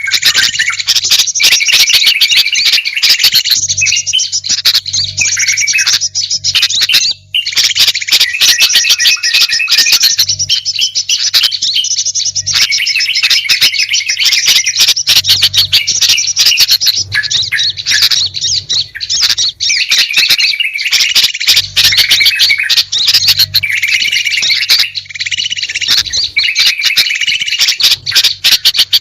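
Bird-lure recording: a dense, unbroken chorus of small songbirds chirping, squawking and twittering over one another, with a short gap about seven seconds in.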